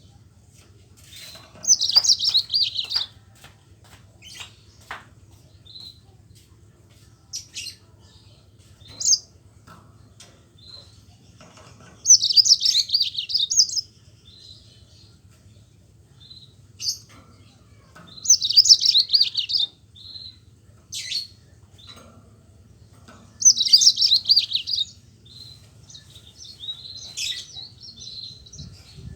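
Yellow-fronted canary (Mozambique singer) singing in rolling trilled song bursts: four loud high phrases, each about a second and a half, several seconds apart, with short single chips between them.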